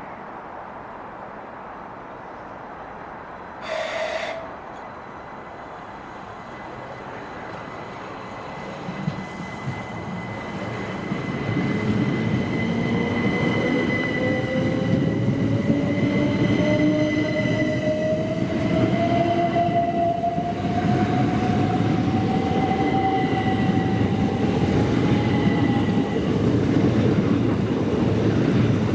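A train comes into earshot and passes loudly, building from about eight seconds in. A whine rises steadily in pitch through the passage and a thin high squeal runs beneath it. A brief single tone sounds about four seconds in, before the train is loud.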